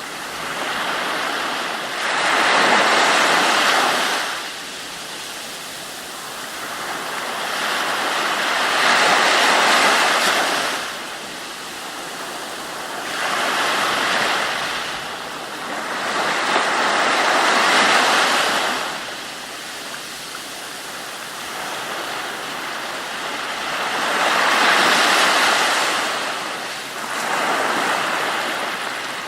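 Ocean waves breaking and washing in, a rushing hiss that swells and fades again every few seconds.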